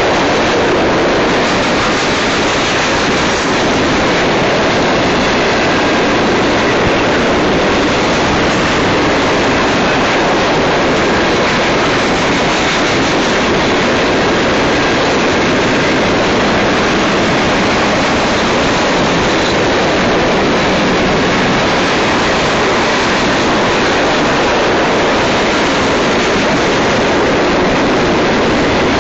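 Mixed freight cars of a manifest train (boxcars, covered hoppers, tank cars) rolling past on the rails: a loud, steady rushing rumble of wheels on track with no let-up.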